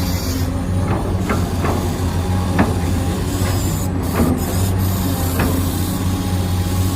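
Electric gear motors of a Huina 1593 radio-controlled excavator whirring steadily, with about six short clicks and knocks at irregular moments.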